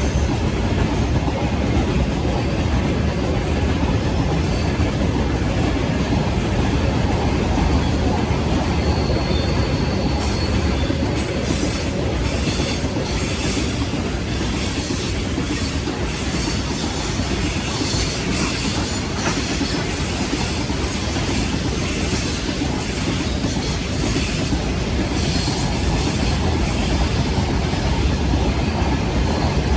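Heavy freight train rolling by at speed: a steady rumble of wagon wheels on the rails with clickety-clack, and from about a third of the way in, repeated short high metallic squeals from the wheels.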